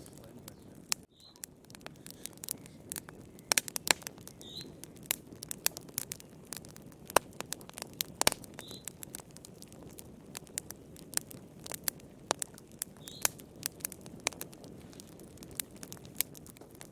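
Campfire burning: wood crackling with irregular sharp pops, several a second, over a low steady rush of flame.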